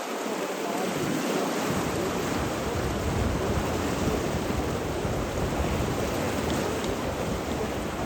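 Steady rushing of water, an even hiss with a deeper rumble joining about one and a half seconds in.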